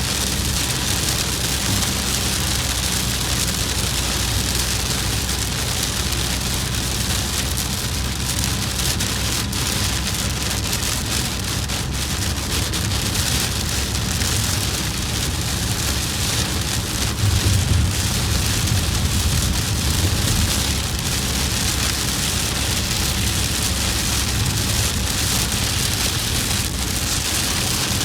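Heavy rain hitting a moving vehicle, a dense steady hiss over the low rumble of road and engine. The rumble swells for a few seconds just past the middle.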